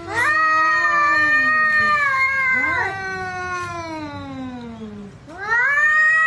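Domestic cats yowling at each other in a standoff before a fight: long, drawn-out wails that slide slowly in pitch. One wail runs to about three seconds, a second overlaps it and falls away, and a new rising wail starts near the end.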